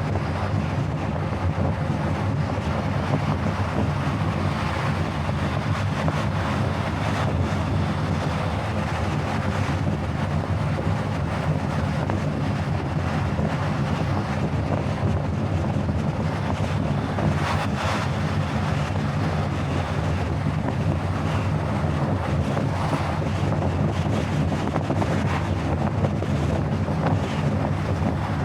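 Steady road and wind noise from a car travelling at highway speed, with a constant low drone that stays level throughout.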